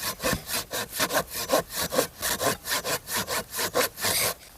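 Hand saw cutting through a thick wooden stick in quick, even back-and-forth strokes. The strokes stop shortly before the end.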